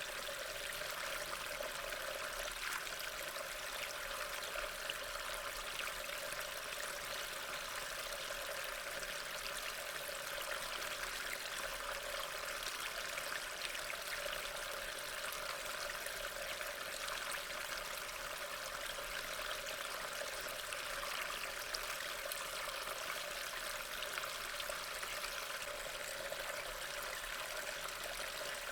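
Steady rain, an even hiss of falling water with faint scattered drop ticks.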